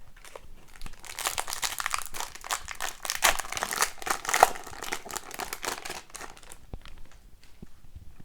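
Foil wrapper of a hockey card pack crinkling and tearing as it is handled, a dense crackle for about five seconds that dies down to a few light clicks near the end.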